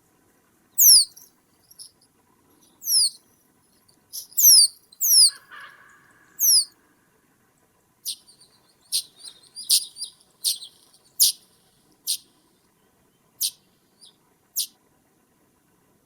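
A bird's very high, thin calls, each falling quickly in pitch, repeated every second or two. In the second half they give way to a run of short, sharp high ticks.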